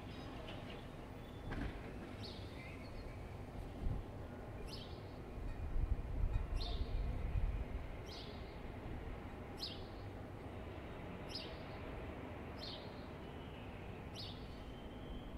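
A bird repeating one short, high, falling call about eight times, roughly every second and a half, over a steady low city hum. A low rumble swells and fades around the middle.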